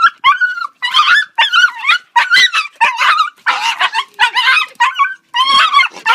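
Dog yelping and whining in a rapid run of high, wavering cries, nearly two a second, as it refuses to walk on its lead.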